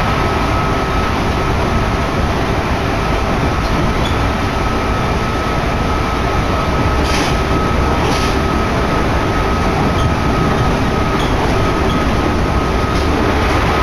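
Train in motion, heard from inside the passenger car: a steady, loud rumble of running gear with a thin steady whine over it, and two brief hisses about seven and eight seconds in.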